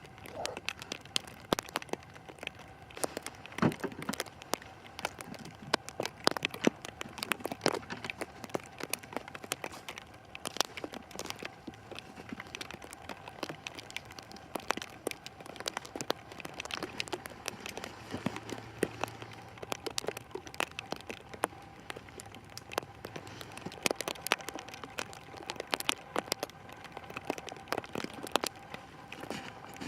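Plastic wrap sheeting crackling and crinkling in many short, irregular ticks, with a faint steady hum beneath.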